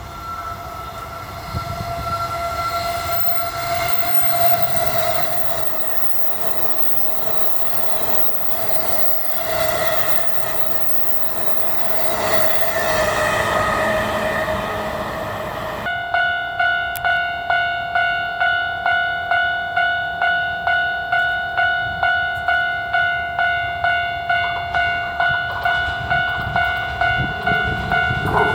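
JR E233-series electric train running, its motors giving held tones over the rail noise. About sixteen seconds in this changes to a railway level-crossing bell ringing steadily, about two strikes a second.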